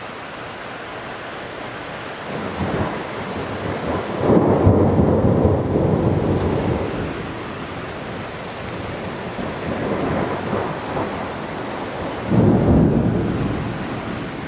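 Thunder rumbling over steady rain. One long roll swells about four seconds in and fades slowly, and a second sharp-edged roll comes near the end.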